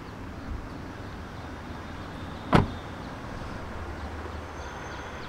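A car door shutting once, a sharp slam about halfway through, over a steady low rumble.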